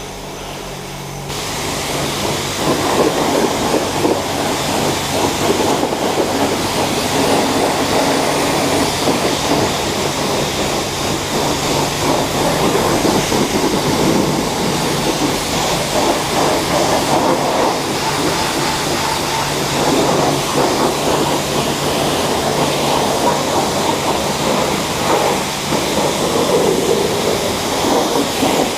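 Self-serve car wash high-pressure wand spraying water onto a motorcycle, a steady hissing spray that starts about a second in, with a steady low hum underneath.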